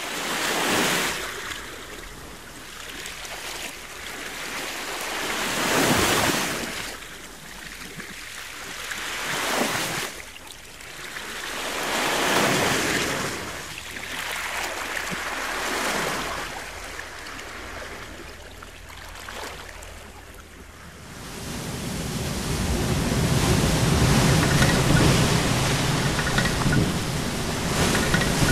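Sea waves surging and washing in, each swell rising and falling every three to four seconds. About three quarters of the way through they give way to a steady, louder rush of surf.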